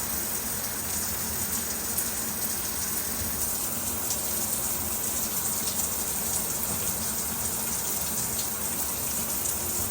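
Water spraying steadily from a freshly descaled shower head, flowing freely again now that the limescale is cleared from its nozzles.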